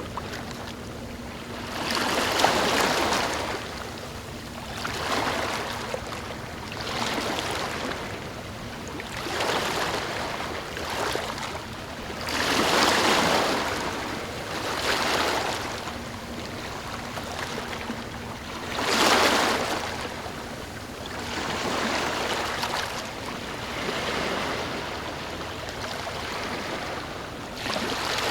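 Small ocean waves washing in one after another, each rush of water swelling and fading every few seconds, with bigger ones about two, thirteen and nineteen seconds in.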